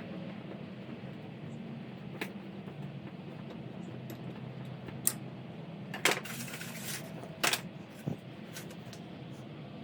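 Scattered metallic clicks and taps of tools and small engine parts being handled on a workbench, with a brief hiss just after six seconds in, over a steady low background noise.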